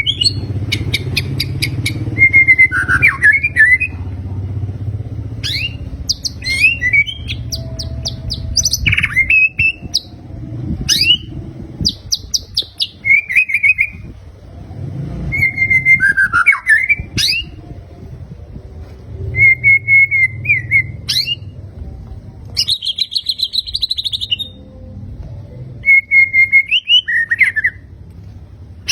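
White-rumped shama singing: a run of loud phrases with short gaps between them, mixing clear whistled notes, fast rattling trills and quick sweeping notes. A low rumble runs underneath.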